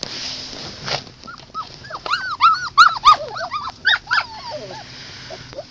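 Five-week-old collie puppies whining and yipping: many short cries that rise and fall in pitch, several overlapping at once, starting about a second in and thinning out near the end. A brief hiss in the first second.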